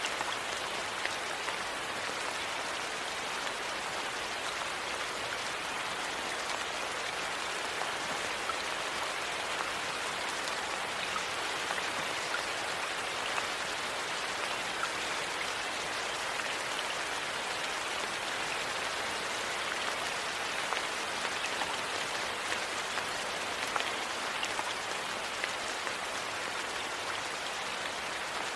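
Steady, even rain with scattered small ticks and pops over it.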